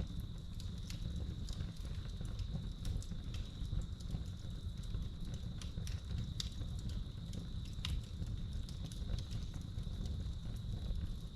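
Wood fire crackling in a fireplace with irregular sharp pops over a steady low rumble, while crickets keep up a continuous high trill.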